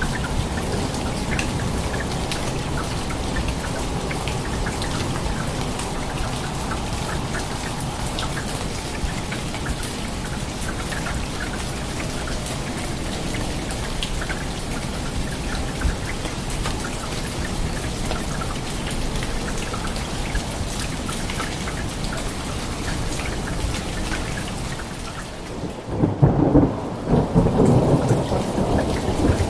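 Steady rain falling, with scattered drops pattering, then a loud rumble of thunder about 26 seconds in that runs on for a few seconds.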